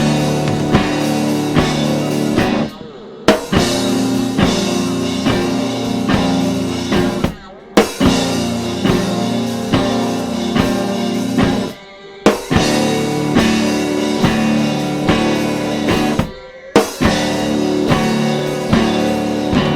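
Rock music with electric guitar and drum kit, played in repeating phrases of about four seconds. Each phrase breaks off briefly and comes back in on a sharp drum hit.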